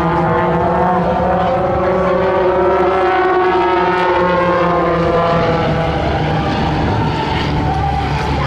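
Propeller airplane engine droning overhead, its pitch slowly falling as it passes.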